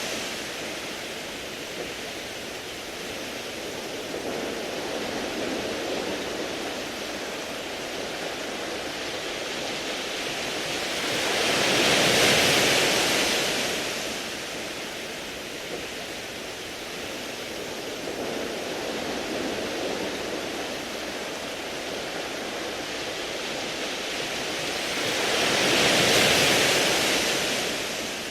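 Sea waves washing onto a beach of smooth round pebbles: a steady rushing wash, with two larger waves surging up about 12 seconds in and again near the end.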